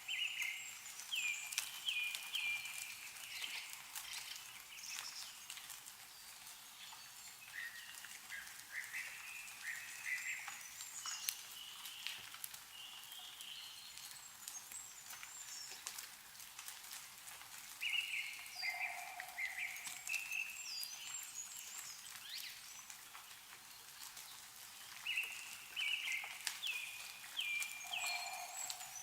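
A songbird singing bouts of quick, repeated notes every several seconds, over scattered drips of meltwater falling from snow-covered trees.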